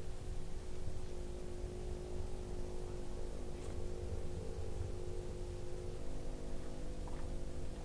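Ferrari 458 Speciale's V8 idling steadily through its aftermarket Fi exhaust, a low rumble under a steady hum.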